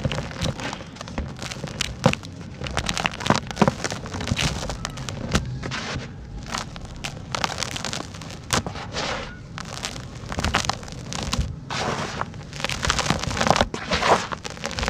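Dry, dusty sand-cement chunks being crumbled: a rapid, irregular run of crunches and crackles, with a few sharper snaps standing out.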